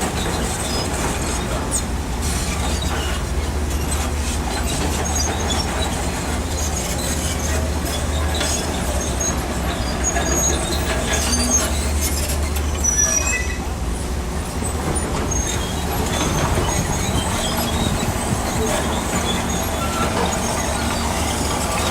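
Shantui crawler bulldozer working: a steady diesel engine drone with short high squeaks scattered through it from the steel tracks.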